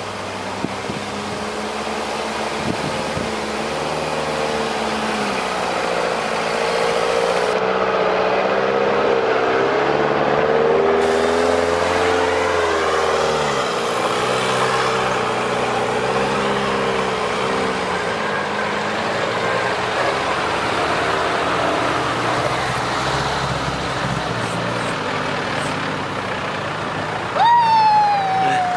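Engines of off-road 4x4s, an Auverland and a Suzuki among them, running at low speed as they drive past on a dirt track, the engine note wavering up and down and growing louder over the first ten seconds. Near the end a short, loud high-pitched squeal falls in pitch.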